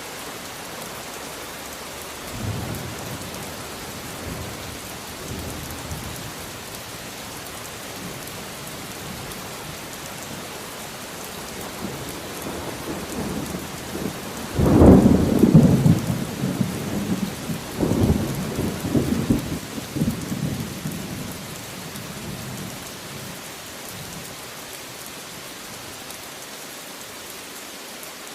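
Steady rain falling, with a faint roll of thunder a couple of seconds in. About halfway through comes a sudden loud thunderclap that rumbles on in waves for about six seconds.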